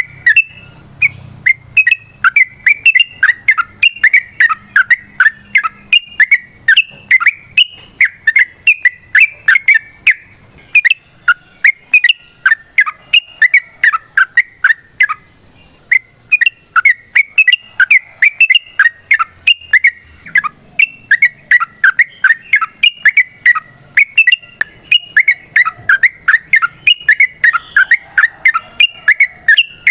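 Yellow-vented bulbul (trucukan) singing a long, fast run of short chirping notes, several a second, with a brief pause about halfway.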